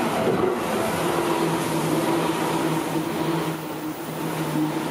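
Electric train passing close by at steady speed: wheel and running noise with a steady motor hum.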